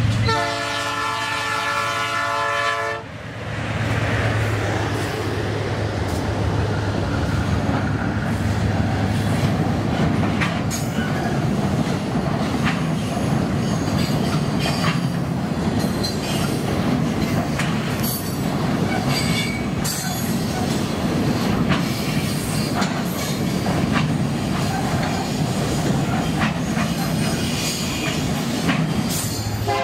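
Train air horn blowing a multi-tone chord for about three seconds, then the train rolling past with a steady rumble and wheels clicking over rail joints. The horn sounds again at the very end.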